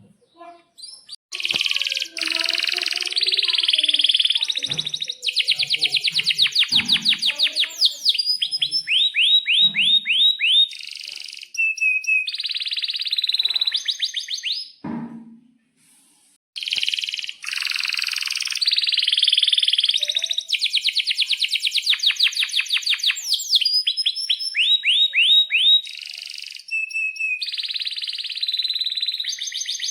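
Domestic canary singing long, loud song bouts of fast repeated chirps and rolling trills. The song breaks off briefly about halfway through, then starts again.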